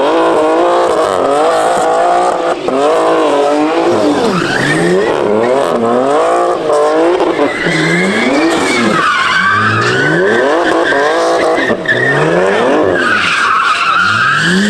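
A car's engine revving up and falling back over and over while its tires squeal and skid, as in a burnout or donuts at a car meet.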